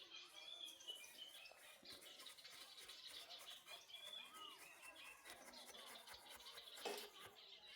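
Faint birdsong: small birds chirping repeatedly, with one sharp click a little before the end.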